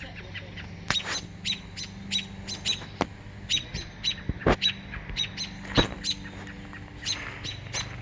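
A bird calling in runs of short, high, sharp notes, about three a second, with brief pauses between runs, and a few sharp clicks along the way.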